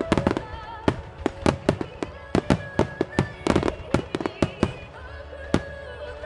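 Starmine fireworks shells bursting in quick runs of sharp cracks and bangs, easing to a single bang near the end, over the music played with the display.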